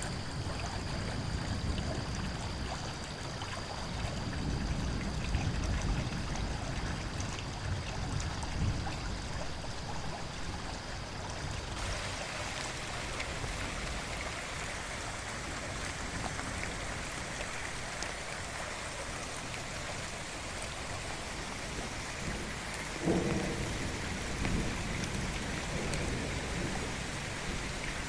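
Thunderstorm ambience: steady rain and running water with low rolling thunder. About twelve seconds in the sound changes abruptly to a brighter, steady rain hiss, and a single short thunderclap comes about two-thirds of the way through.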